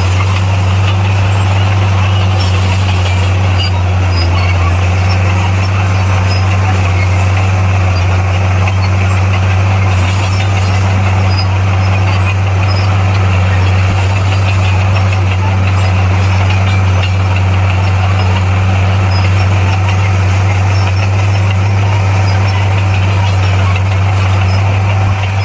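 Heavy diesel engine of earthmoving machinery running steadily at constant speed, a deep even drone.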